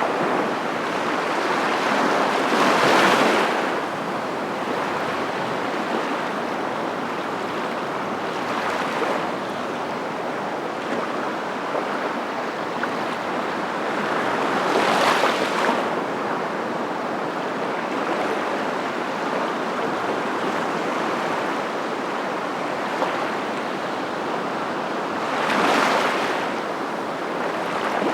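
Waves washing ashore: a steady rush of surf that swells louder every several seconds as a wave breaks, four times.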